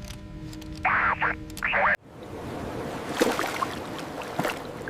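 Soundtrack music with two short, bright sound-effect hits, then an abrupt cut about two seconds in to a steady, noisy ambience with a few faint knocks.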